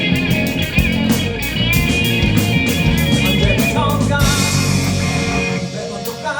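Live rock band playing an instrumental passage between sung lines: drum kit with steady cymbal strikes, electric guitar and bass. The sound dips briefly near the end.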